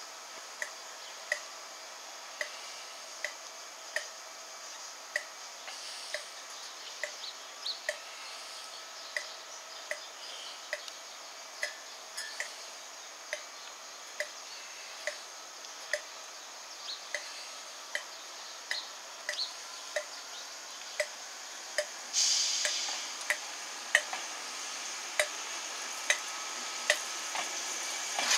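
Light, even ticking about twice a second beside a standing loco-hauled Mk3 train. About 22 seconds in, a steady hiss of air starts and carries on as the train begins to move off.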